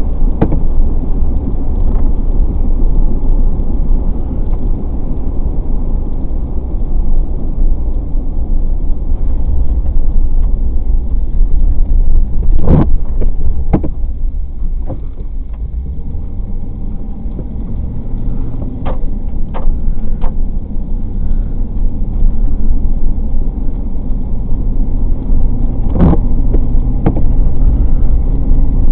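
A car driving on a wet highway: steady low road and engine rumble, with a few short knocks here and there.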